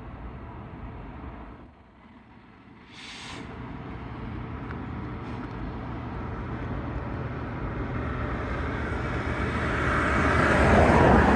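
DB Cargo Class 66 diesel locomotive with a freight train approaching, its EMD two-stroke V12 engine and the train's rumble growing steadily louder over the last several seconds.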